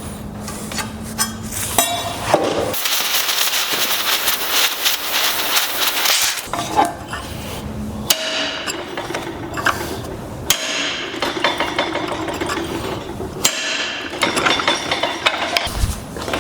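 Hand hammer striking hot steel on an anvil in uneven runs of blows, between stretches of steady hiss.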